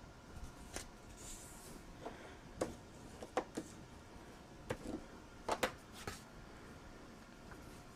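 Scattered light clicks and taps, about eight over several seconds, with a brief rustle, from paper and craft tools being handled on a work table.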